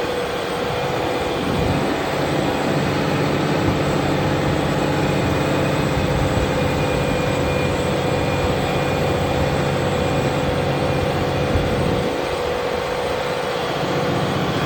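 Fendt tractor's diesel engine running steadily under load while ploughing, with a steady whine over the engine note. The low rumble thins briefly near the start and again about twelve seconds in.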